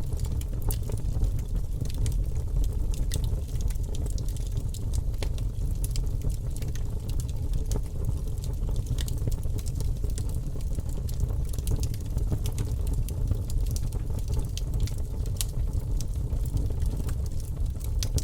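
Wood campfire burning: a steady low rumble with frequent sharp crackles and pops from the burning wood.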